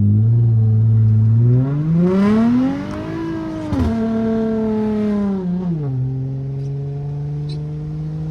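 Straight-piped SXT's exhaust: the engine holds a steady note, revs up in a rising climb for about two seconds, drops sharply about four seconds in, then falls back to a low note near the end that slowly climbs again as the car pulls away.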